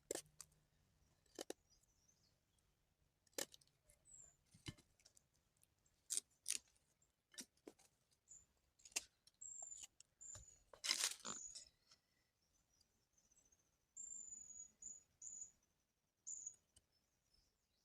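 Faint, short, high chirps of a small bird, repeated through the second half, among scattered light clicks and taps.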